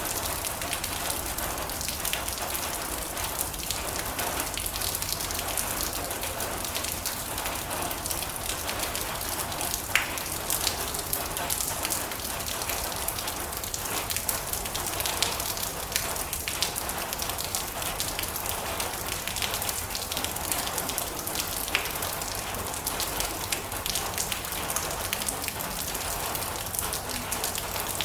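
Steady rain falling on a metal roof: a dense, even patter of drops with occasional sharper single drop strikes.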